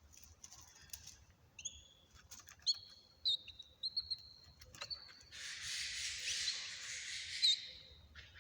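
Small caged birds chirping: a run of short, high chirps, then a louder, scratchy, noisy stretch with chirps in it about halfway through. Light clicks are scattered throughout.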